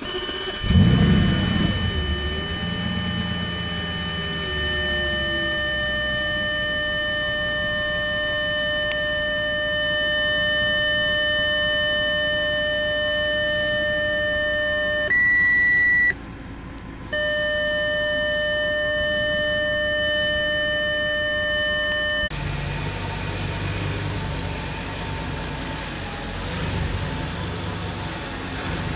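Audi S8's 5.2 V10 engine starting: it cranks and catches with a brief rev flare about a second in, then settles to a steady idle. A steady high-pitched tone sits over the idle inside the car and briefly changes pitch about 15 s in. From about 22 s on, the idle is heard from in front of the car and sounds fuller and deeper.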